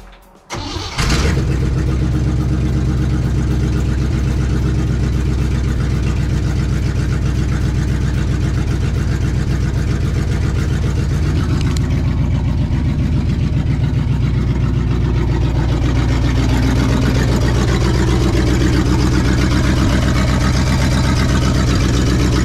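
1965 Chevy C20 pickup's 350 V8 starting cold after sitting overnight: it catches about a second in and then idles steadily.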